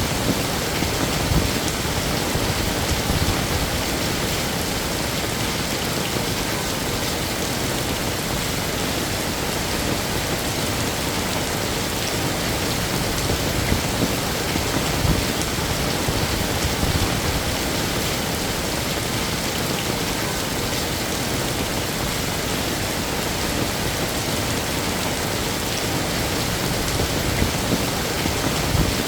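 Heavy rain falling steadily, a dense even hiss with scattered heavier drops.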